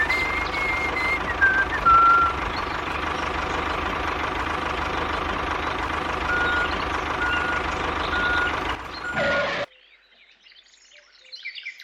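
A vehicle's motor running steadily while a reversing beeper sounds short beeps about once every second in the second half. It all cuts off abruptly about nine and a half seconds in.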